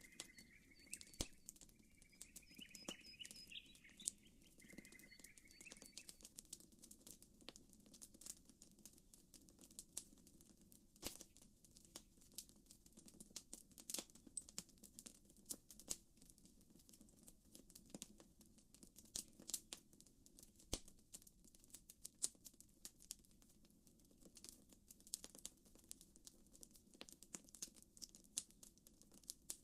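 Campfire crackling, with frequent sharp pops and snaps of burning wood. A bird chirps in short repeated phrases during the first several seconds.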